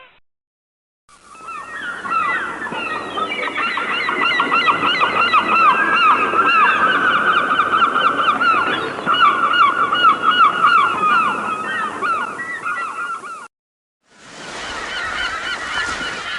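Nestlings begging: a dense chorus of rapid, high, repeated chirps from several chicks at once. It cuts off abruptly about thirteen seconds in and starts again a second later.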